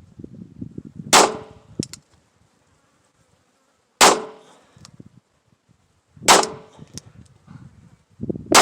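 Four sharp pistol shots, about two to three seconds apart, from a North American Arms .22 Magnum single-action mini revolver, each with a brief ringing tail.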